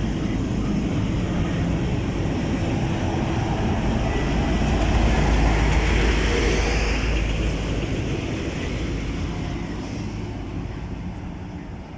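Train passing by: a steady rumble and rolling noise that swells to its loudest about halfway through, then fades away.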